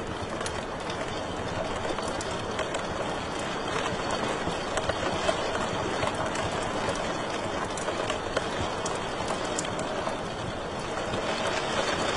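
Wood fire burning in a fireplace: a steady hiss of flames with many small, sharp crackles and pops scattered throughout.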